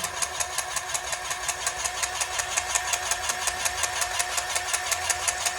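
A small engine or motor running steadily with an even mechanical ticking, about nine ticks a second.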